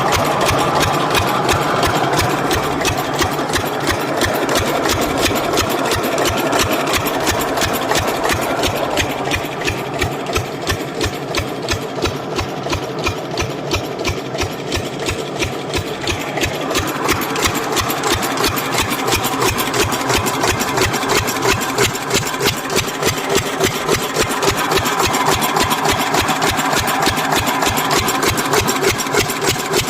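A 10 hp single-cylinder stationary diesel irrigation engine running steadily, its firing beat coming in an even, regular rhythm.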